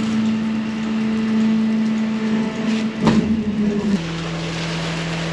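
An engine running steadily, with a sharp knock about three seconds in; about four seconds in the engine drops to a lower, steady speed.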